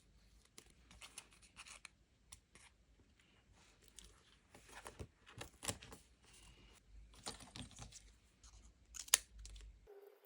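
Close-up handling of paper and sticker sheets: irregular crisp rustles, scratches and short tearing sounds, with one sharp loud crackle about nine seconds in.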